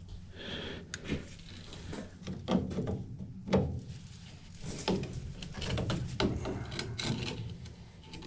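PVC pipe and fittings being handled and pushed together during gluing: scattered light plastic knocks and clicks with scraping, rubbing sounds.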